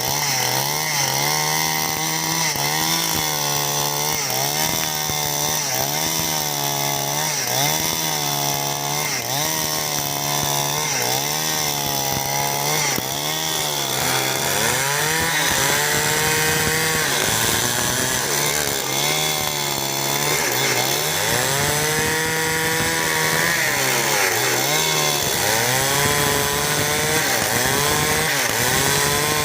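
Two-stroke chainsaw ripping timber lengthwise into battens, its engine pitch rising and falling as the bar works along the cut: about once a second at first, then in slower, irregular swells about halfway through.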